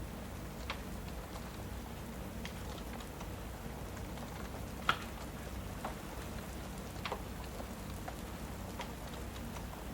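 Steady rain with a fireplace crackling: scattered sharp pops and snaps over a continuous low hiss, one pop about five seconds in louder than the rest.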